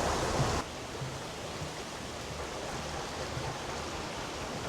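Steady rushing of a flowing river, an even hiss of water that drops suddenly in level about half a second in and then holds steady.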